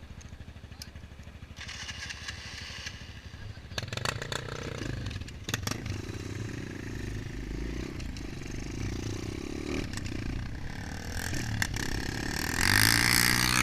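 MXF 125 dirt bike's engine running, low and pulsing at first, then louder from about four seconds in as the bike rides through mud, with the revs climbing near the end.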